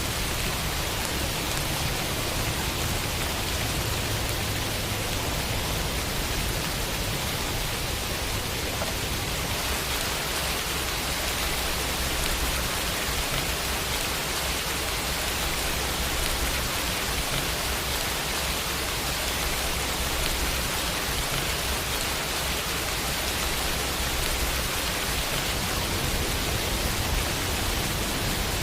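Steady rain falling on a window, a dense even hiss with no distinct drops standing out.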